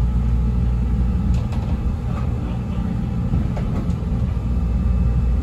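Steady low rumble of a CTA 5000-series rapid transit car running along the track, heard from inside the car, with a few faint clicks about a second and a half and three and a half seconds in.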